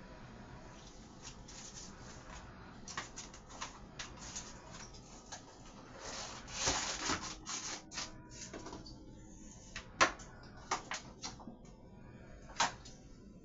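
Kitchen handling noises: scattered clicks and taps of things being set down and moved on a counter, a short rustle about halfway through, and a sharper knock about two-thirds of the way in.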